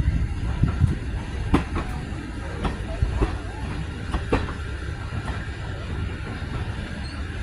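Heritage railway train running along the track: a steady low rumble with irregular clicks and knocks from the wheels on the rails.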